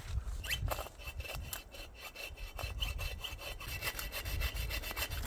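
A short hand saw cutting through a log in quick, steady back-and-forth strokes, the cut going slowly.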